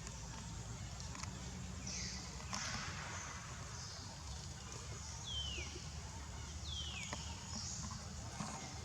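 Two short, high-pitched animal calls, each falling sharply in pitch, about a second and a half apart, with brief rustling earlier and a steady low rumble underneath.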